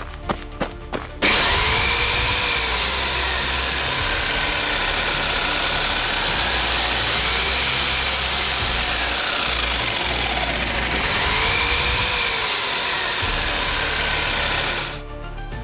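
A few sharp knocks, then a loud, steady machine noise with a whine that slowly rises and falls about every five seconds, stopping near the end.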